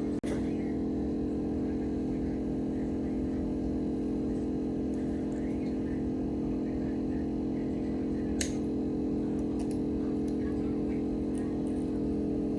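A steady machine hum with a few light clicks.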